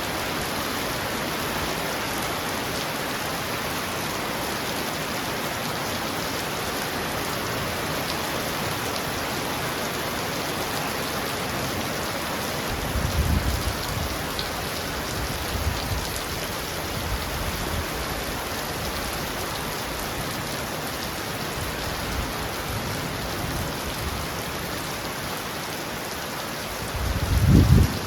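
Heavy rain falling steadily on a roof, an even hiss. A low rumble of thunder comes about halfway through and a stronger one near the end, each lasting a second or two.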